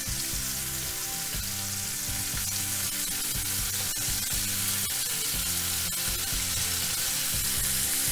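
Paneer cubes sizzling as they are set into hot oil in a frying pan, a steady crackling hiss, over soft background music.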